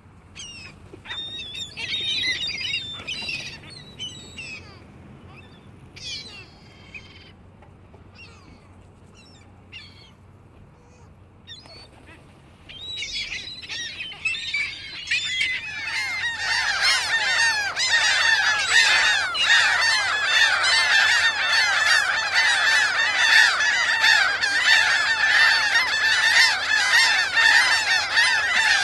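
Seagulls calling: a few scattered cries at first, then from about halfway a dense chorus of many gulls crying at once, growing louder, like a busy colony.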